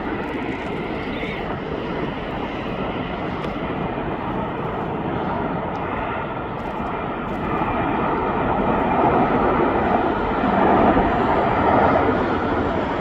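Jet airliner engines, a steady rushing noise that grows louder from about halfway through.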